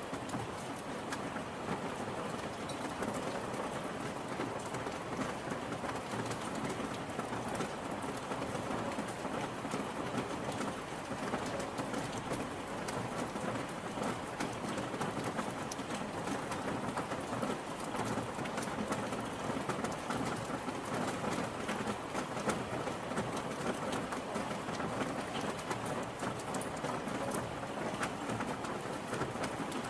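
Steady rain falling and pattering on a surface, a dense even hiss of many drops.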